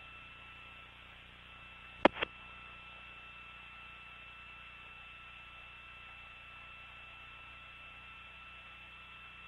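Open radio voice channel between calls: steady hiss with a faint high-pitched hum. A sharp double click about two seconds in, like a transmit key.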